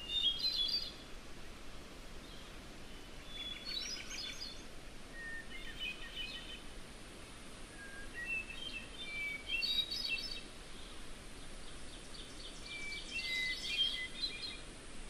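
A songbird singing short, warbling phrases, about five of them a few seconds apart, over a steady background hiss.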